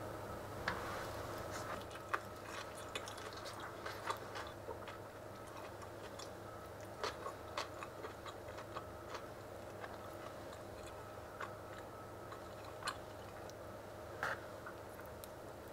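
Someone biting into and chewing a soft Korean salad bread roll filled with mayonnaise-dressed shredded cabbage, carrot and ham. Small irregular mouth clicks and chewing sounds are heard over a faint steady hum.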